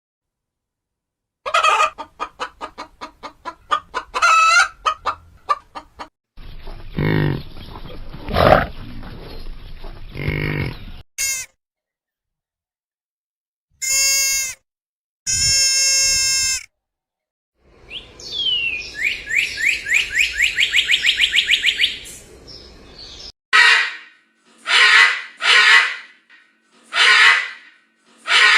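A string of short, separately cut animal calls with silent gaps between them, chicken clucking among them: rapid runs of clucks, a couple of short harmonic calls, and several brief calls near the end.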